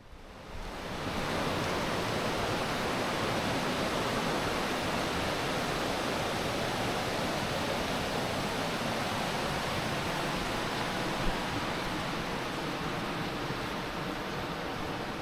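Steady rush of flowing river water, fading in over the first second or so, with one brief knock a little past the middle.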